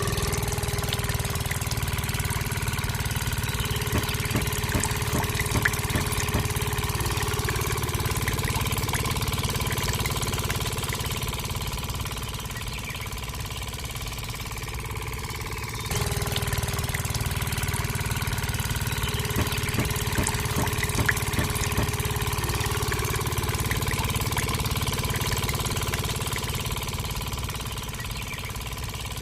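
An engine running steadily at idle with a low hum and scattered light ticks. About halfway through it dips slightly and then cuts back in abruptly at full level.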